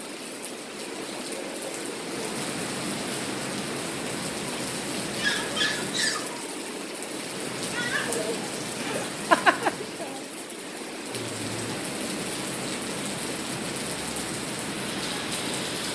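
Steady rain falling, an even hiss, with a few brief high-pitched cries about five seconds in and again about nine seconds in.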